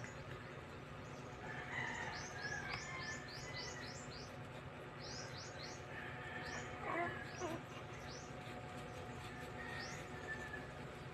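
Small birds chirping in quick runs of short, high, falling chirps, several runs in a row, with a brief louder noise about seven seconds in.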